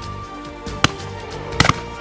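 Shotgun shots at driven pheasants over background music: one shot just under a second in, then a quick pair of shots near the end.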